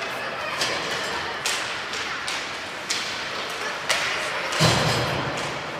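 Ice hockey play in a rink: sharp clacks of sticks and puck, and a heavier, deep thud against the boards about three-quarters through, over the murmur of spectators.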